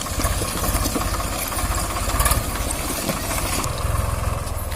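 Tractor's diesel engine running steadily at low revs, with an even, rapid low chug.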